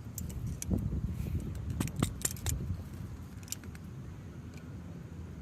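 A handful of sharp clicks and knocks, bunched in the first half and a couple more later, over a low steady rumble.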